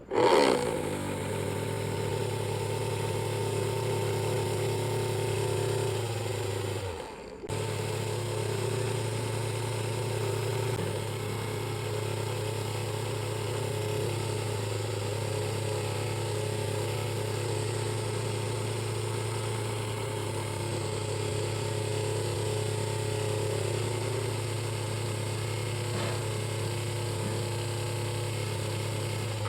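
Small DC motor of a homemade cardboard mini air cooler running with a steady hum. It switches on abruptly, winds down and cuts out about seven seconds in, starts again half a second later, and runs steadily until it is switched off at the end.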